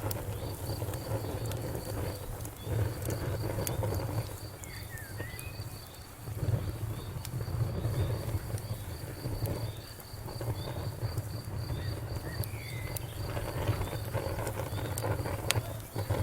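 Wood fire burning, with sharp crackles and pops over a low steady rumble. A cricket chirps faintly and evenly, about twice a second.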